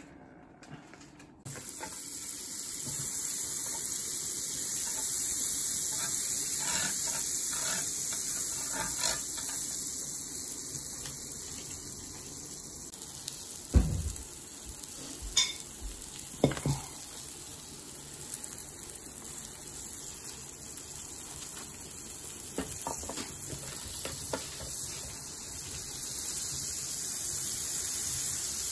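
Mushroom slices frying on a hot ridged tabletop grill plate: a steady high sizzling hiss that starts a moment in, with a few sharp knocks about halfway through.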